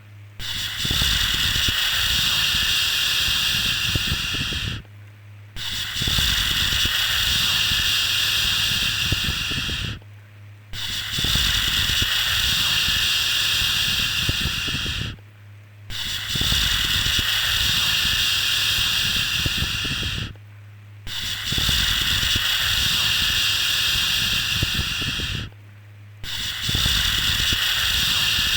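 A long 'shhh' shushing sound, each one lasting about four and a half seconds, repeated about every five seconds with a short break between, as used to soothe a baby to sleep.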